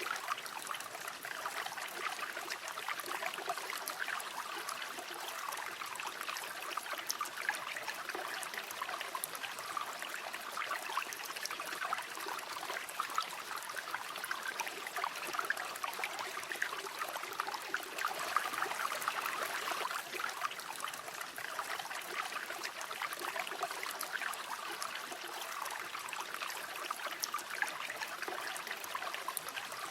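River water flowing steadily over stones, a continuous babbling and trickling with many small splashes.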